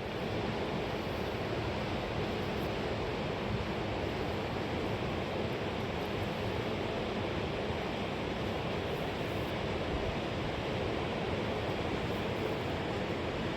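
Fast-flowing river water rushing, a steady even noise.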